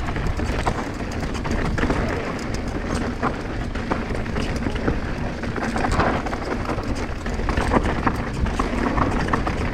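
Mountain bike descending a loose, rocky trail: wind rumbling over the microphone, with tyres crunching over stones and the bike rattling in many short clicks.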